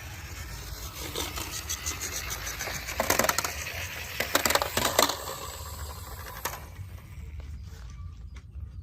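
Die-cast toy vehicles being handled, giving small metal and plastic clicks and rattles, with a louder run of clattering between about three and five seconds in.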